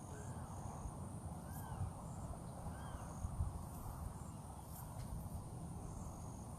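Outdoor ambience before sunrise. A bird repeats a short rising-and-falling note about every second and a half, over a steady insect hum and a low rumble.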